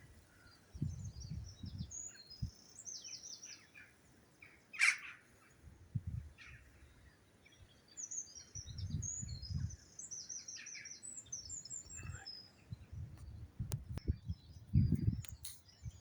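Small songbirds chirping and trilling in a dawn chorus, with one louder, sharper call about five seconds in. Low muffled rumbles come and go underneath, the loudest near the end.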